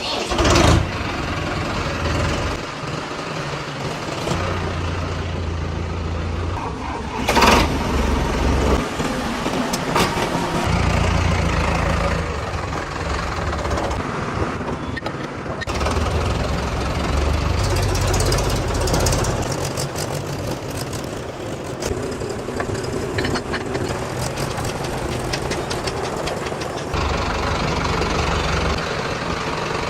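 Fiat 640 tractor's diesel engine running, its low note rising and falling every few seconds, with a sharp clatter about seven seconds in and another at about ten seconds.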